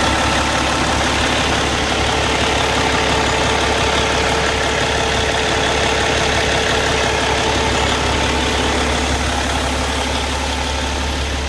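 Cummins ISX inline-six diesel of a 2011 Peterbilt 389 highway tractor idling steadily.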